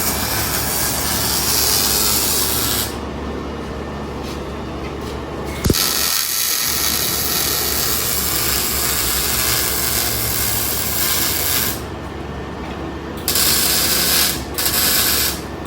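Pneumatic shop tools, such as an air ratchet or impact gun, running in several bursts, with a hissing rush of air. There is a sharp click about six seconds in.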